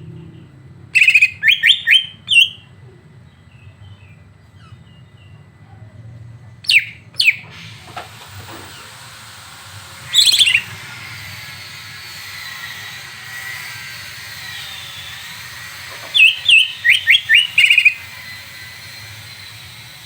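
Songbird chirping in loud, rapid bursts of high notes, four bursts with pauses between them, over a faint steady hiss: bird-song 'masteran' played to provoke a cucak ijo (green leafbird) into singing.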